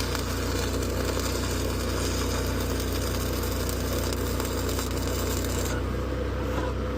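Stick (arc) welding on a steel truck frame rail: a steady crackling, frying hiss of the arc that cuts off abruptly near the end as the rod is broken away. A low engine hum runs underneath.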